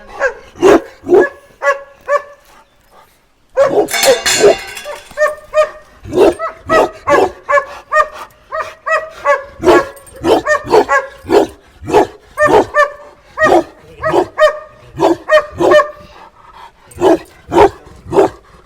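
A dog barking over and over, roughly two barks a second, with short breaks; about four seconds in there is a harsher, noisier stretch of about a second.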